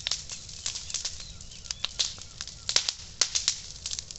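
Campfire crackling: burning wood giving off irregular sharp pops and snaps, several a second, with a close cluster of louder pops about three seconds in.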